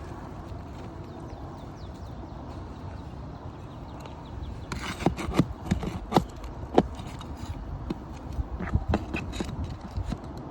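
Asphalt roof shingles being handled and lifted: irregular sharp knocks and clicks start about halfway in, over a steady low rumble.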